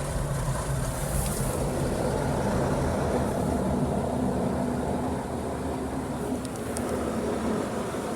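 Washworld Profile Max automatic car wash running, heard from inside the car: a steady machine hum with rotating brushes scrubbing the body and water spraying, with a few faint ticks a little past the middle.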